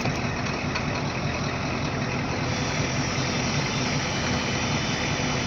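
Ford 6.9 L IDI V8 diesel running steadily at idle, heard from inside the cab, with the heater blower fan blowing on defrost.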